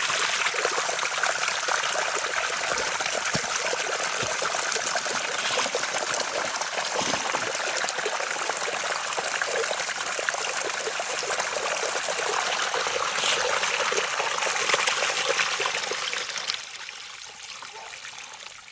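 Backed-up sewage pouring steadily out of an opened sewer cleanout as a blocked main line drains. The flow drops off sharply near the end.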